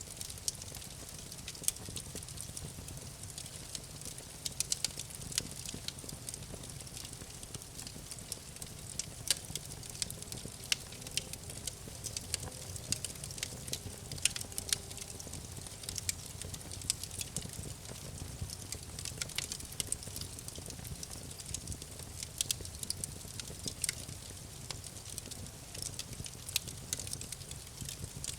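Campfire burning: wood crackling, with many irregular sharp pops over a low steady rumble.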